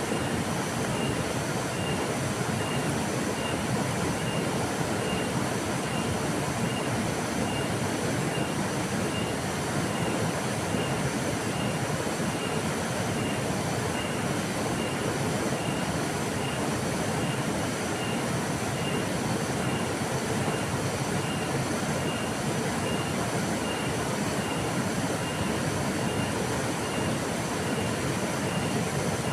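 River water flowing in a steady, even rush. A faint high-pitched chirp repeats about every half second over it.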